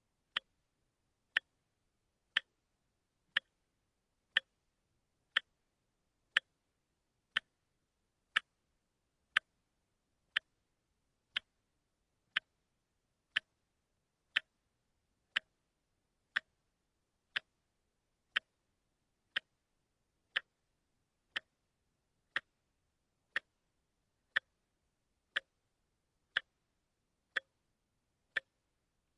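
A watch ticking once a second, each tick a short, sharp click with silence between.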